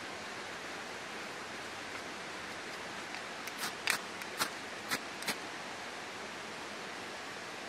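Wood campfire crackling: a quick run of five or six sharp pops partway through, over a steady rushing hiss.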